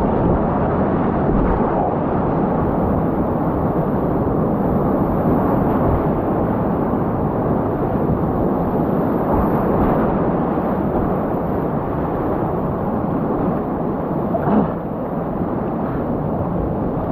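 Class 4 whitewater rapids rushing loudly and steadily around a kayak, with a brief louder splash about three-quarters of the way through. The sound cuts off suddenly at the end.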